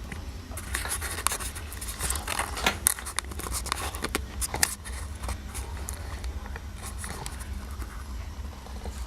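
Irregular clicks and scrapes of hands handling metal parts, thickest in the first half, over a steady low hum.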